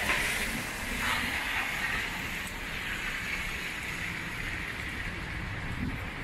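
Steady hiss of heavy rain on wet city pavement, a little louder in the first second or so, over a low rumble of city traffic.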